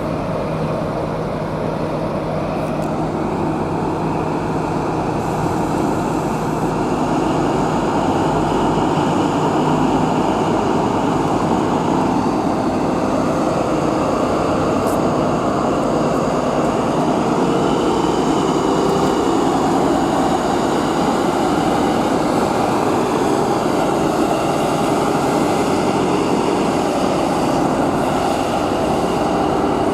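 Train at the platform, loud and steady, with a low engine note and faint whines, growing a little louder about seven seconds in. It is most likely the diesel engine of a Class 43 HST power car.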